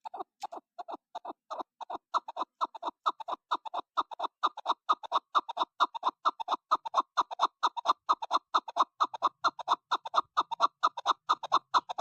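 Chukar partridge giving its rapid rallying call, a long run of short clucking notes. The notes start softer and slower, build to about five a second over the first two seconds, then run on steadily and stop abruptly.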